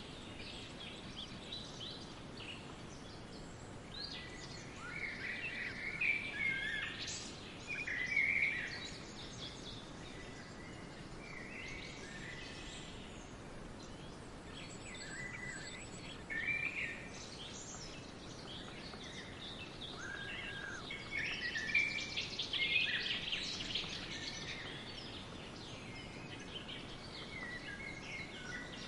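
Several songbirds chirping and trilling over a steady background hiss, with busier bursts of song about a fifth of the way in and again past the two-thirds mark.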